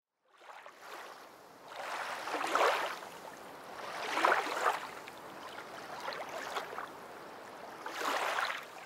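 Water rushing and splashing, swelling and easing four times, about every two seconds.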